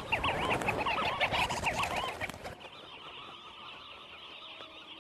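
A flock of sandgrouse calling, with many overlapping, repeated chirping calls. They are loud for about the first two and a half seconds, then drop to a fainter chorus.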